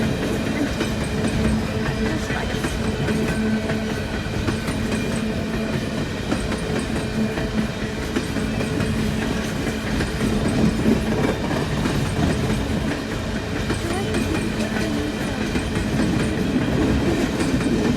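Empty coal train's cars rolling past with a steady rumble and clatter of steel wheels on the rails, with a steady low hum underneath.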